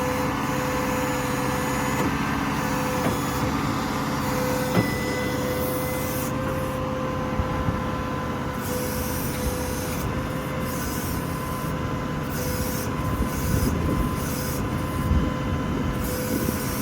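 Ford F550's 6.7-litre Power Stroke diesel idling with the PTO engaged, and a steady whine from the hydraulic system running the service-bed crane. A hiss cuts in and out several times in the second half as the crane functions are worked.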